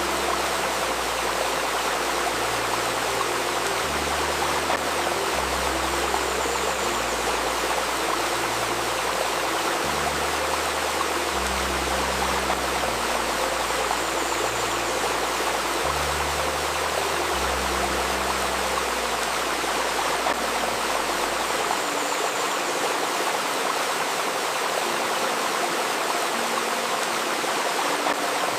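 Steady rushing of a babbling river, under soft low sustained tones that shift in pitch every second or two; the deepest tones fall away about three quarters of the way through.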